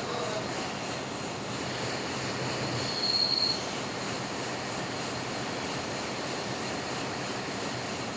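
Metal lathe running and cutting, a steady machining noise, with a brief high-pitched squeal about three seconds in.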